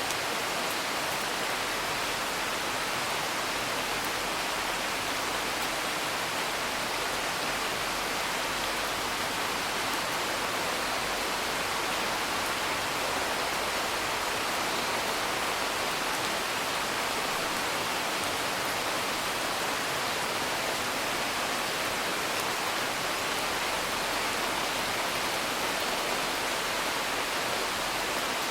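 Steady, even hiss of rain, with a few faint crackling pops from a wood fire.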